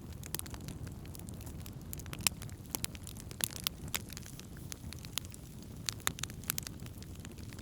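Wood fire burning, crackling and popping at irregular intervals over a low steady rumble of the flames, with a sharp pop about two seconds in.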